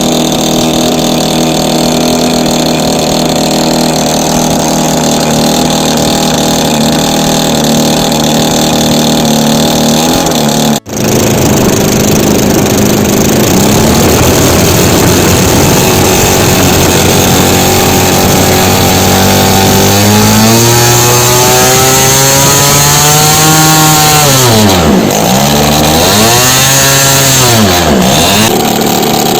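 DLE 20cc single-cylinder two-stroke gasoline engine on an RC plane, running through a Pitts-style muffler with a steady buzzing note. It breaks off briefly about eleven seconds in. Later the note rises, then sweeps down and back up several times near the end as the plane flies past.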